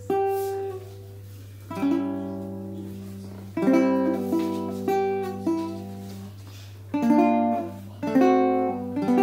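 Baritone ukulele tuned DGBE with a low D string, playing a slow tune of single plucked notes and chords, each left to ring and fade before the next.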